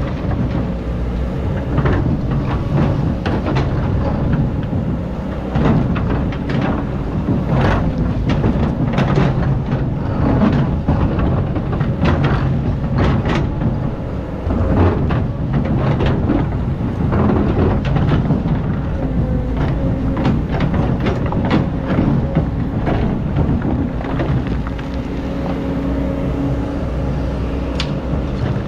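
Excavator's diesel engine running steadily while it digs sand, with irregular clanks, knocks and scraping from the bucket and arm throughout.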